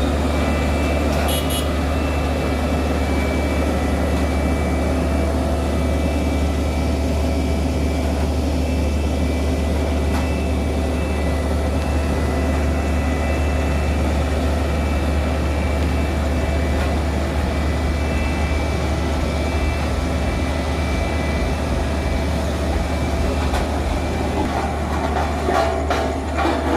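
Heavy truck's diesel engine running steadily under load, a constant low drone.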